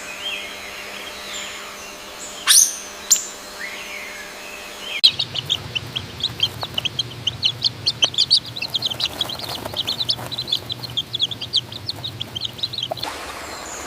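Birds chirping, with two sharp clicks a few seconds in; about five seconds in the sound switches abruptly to a dense, rapid stream of high chirps that cuts off near the end.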